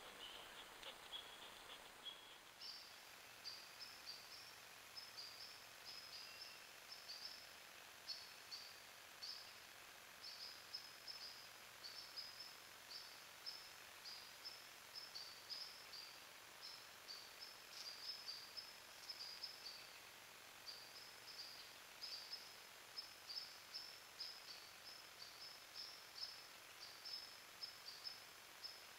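Faint, high-pitched bird chirps repeating steadily, several a second, starting about two seconds in, over a quiet woodland background.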